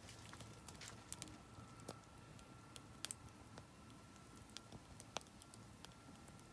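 Oak firewood burning in a fire pit, crackling softly with scattered sharp, irregular pops over a low steady background.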